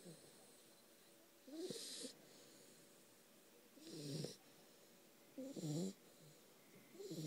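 A dog snoring in its sleep: four snores about one and a half to two seconds apart, each a wobbling low rumble with a breathy hiss, the last right at the end.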